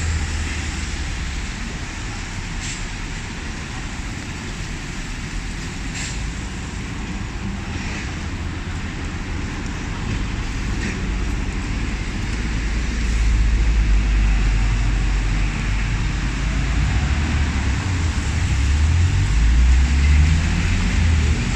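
Steady hiss of rain falling on a city street, over the rumble of road traffic. A deep vehicle rumble grows louder past the middle and swells again near the end.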